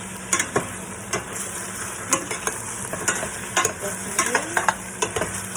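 Chicken sizzling with onion, garlic and ginger in a pan as it is stirred, the utensil scraping and knocking against the pan at irregular moments over a steady frying hiss.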